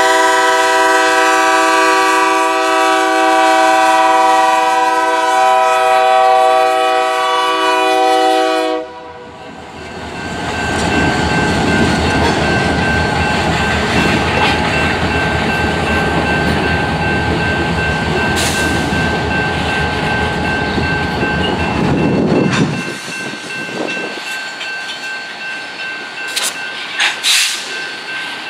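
BNSF diesel freight locomotives' multi-chime air horn sounds one long blast for the grade crossing, cutting off about nine seconds in. The locomotives then pass close with engine rumble and wheels on rail, under a steady ringing of the crossing bell, and the noise drops sharply about twenty-three seconds in, leaving a quieter rolling with a few sharp clicks near the end.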